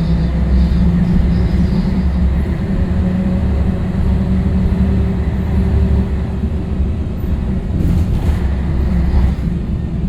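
Scania L113CRL bus's 11-litre straight-six diesel engine running with a steady low drone, with a faint whine rising over it for a few seconds in the middle.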